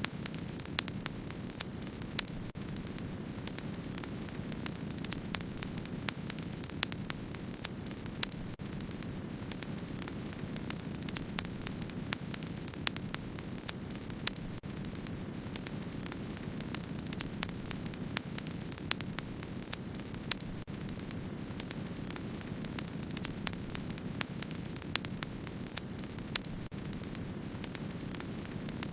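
Wood fire crackling: a steady low rush of burning with frequent small crackles and a louder pop every second or two.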